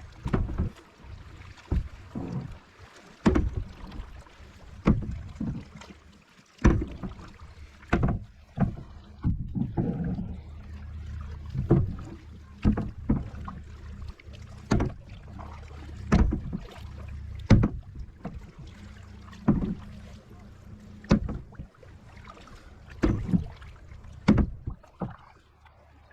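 Kayak paddle strokes, a sharp splash or knock about every second and a half, over a steady low rumble.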